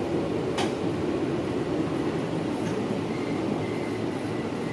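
Running noise of a Nankai Koya Line train heard from inside the car: a steady rumble of wheels on rail. There is a sharp click about half a second in, and a faint thin squeal from the wheels sets in about three seconds in.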